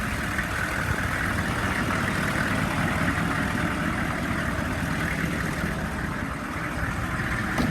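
A 2002 Chevy 3500's 6.5-litre V8 diesel idling steadily, a sound the seller calls good.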